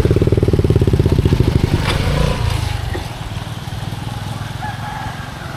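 Small engine running with a rapid, steady pulse, then dropping away about two to three seconds in as it is shut off.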